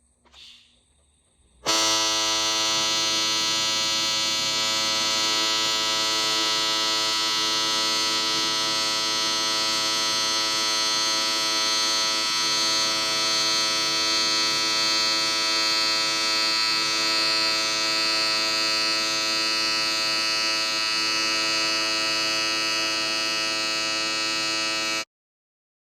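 Turbocharged LS V8 engine idling steadily through a 5-inch aluminum bullhorn exhaust: an even, unchanging drone with no revving. It starts abruptly about two seconds in and cuts off sharply near the end.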